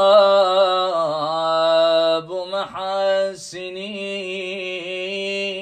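A man's solo voice chanting an Arabic elegy in long, held, ornamented notes, with a brief break for breath about two and a half seconds in.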